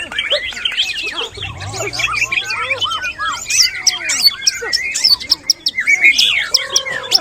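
Several white-rumped shamas (murai batu) singing at the same time: a dense, continuous tangle of whistled phrases, rising and falling slurs and sharp chirps.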